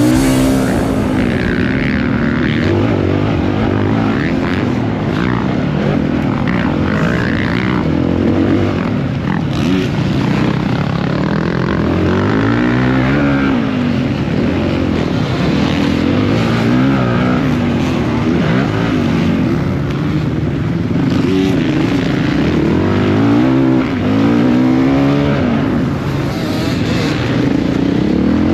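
Motocross bike engine revving hard and backing off over and over, its pitch climbing and dropping every second or two, as on a lap of a dirt track.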